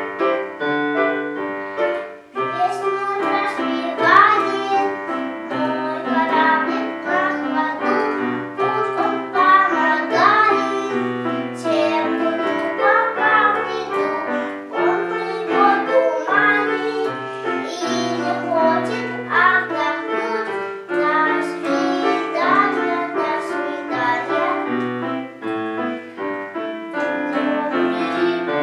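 A child singing a song, accompanied by piano.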